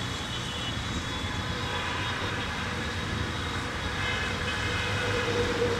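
Metre-gauge passenger train rolling along the tracks: a steady rumble of wheels on rail, with thin high tones above it.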